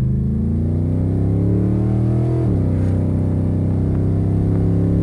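Big-block Chevy V8 accelerating, heard from inside the cab: the engine note climbs, drops sharply about two and a half seconds in as it shifts up, then pulls on at a nearly steady pitch.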